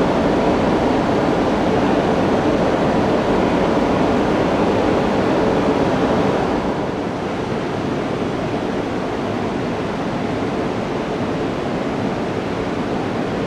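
E2 series Shinkansen standing at the platform with its onboard equipment running: a steady whirring rush with a faint hum in it, dropping a little in level about halfway through.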